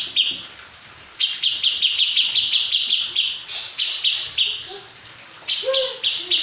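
Grey-cheeked bulbul (cucak jenggot) calling: fast runs of short, repeated high notes, about four a second, in bursts of a couple of seconds with pauses between. A few sharp, harsh sounds come a little past halfway.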